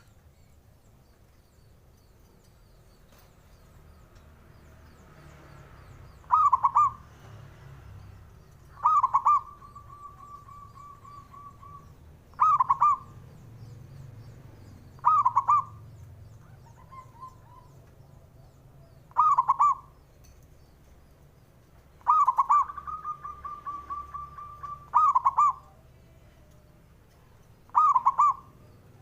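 Zebra dove (perkutut) cooing: short loud coos repeated every few seconds, starting about six seconds in, two of them running on into a rapid trill of notes that lasts about three seconds.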